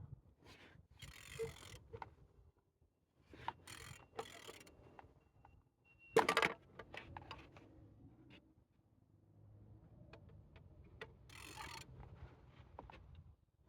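Mercedes-Benz OM651 four-cylinder diesel engine being turned over by hand: scattered mechanical clicks and knocks with a few short rushing noises and one louder clank about six seconds in. The engine turns well.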